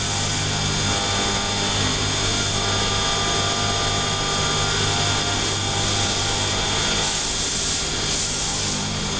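Mori Seiki CNC turn-mill machine cutting metal: a steady run of spindle and cutting noise with several fixed whining tones over it.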